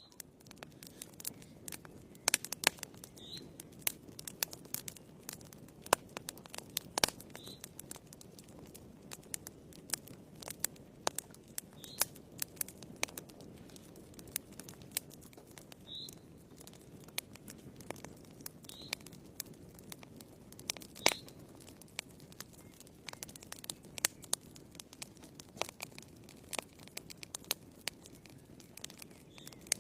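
Wood fire burning in a fireplace: irregular sharp crackles and pops from the burning logs over a low steady rush of flame.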